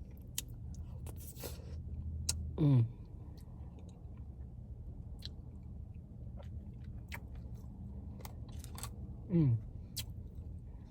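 Close-up eating sounds of a person chewing a candy cane Blizzard, with crunching and small sharp mouth and spoon clicks scattered throughout. Two short vocal sounds falling in pitch come about three seconds in and again near the end.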